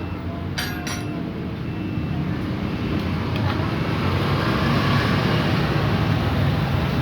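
Steady rumble of passing vehicle traffic that swells louder through the middle and eases near the end, with two light clicks about a second in.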